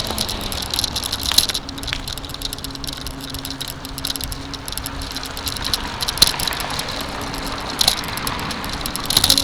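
Bicycle being ridden: steady tyre and wind noise with light rattling and scattered clicks.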